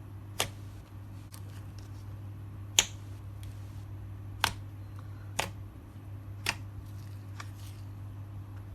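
Slime being pressed and worked by hand, letting out a handful of sharp, irregular pops and clicks over a low steady hum.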